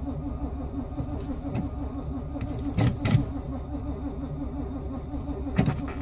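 1978 K5 Blazer's carburetted small-block Chevy V8 being cranked by the starter in −25 °C cold, turning over in a steady even rhythm without catching, with a few short clicks. Typical of a cold engine that may be flooded after a pump of the gas pedal.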